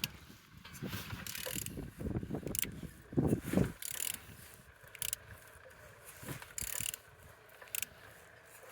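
Removed car engine (FFZ7604) being turned over by hand, with a ratchet and mechanism clicking in repeated short strokes about once a second and a heavier rumble a few seconds in; the engine turns freely.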